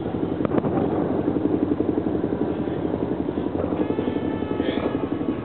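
A fireworks display across the city, heard as a dense, continuous rumble of many rapid bangs and crackles.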